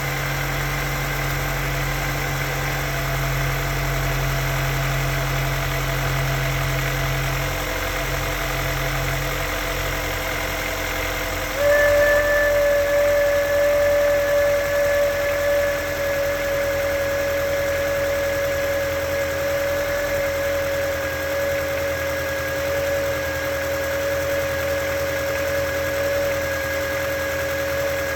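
Honda S2000 four-cylinder engine idling with a steady high-pitched whistle, the weird whistling noise the owner is chasing. About twelve seconds in, the whistle suddenly gets louder and a little lower, then slowly sinks in pitch.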